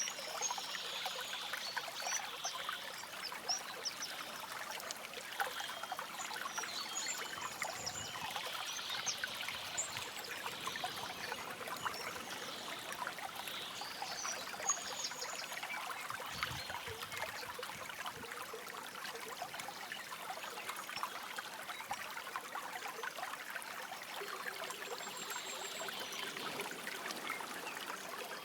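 A shallow stream trickling and babbling steadily over stones, with short high bird chirps scattered through it.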